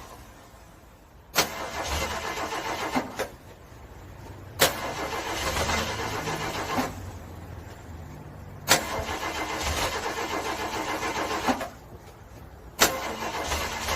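Car engine being cranked by its starter on a frozen cold start, in four separate attempts a few seconds apart. Each attempt begins with a sharp click and runs as a fast, even cranking for two to three seconds, then stops without the engine catching. The last attempt begins near the end.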